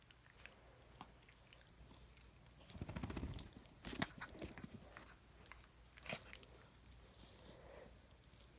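Dog making quiet chewing and mouth sounds, with scattered small clicks and a short, louder rattling burst about three seconds in.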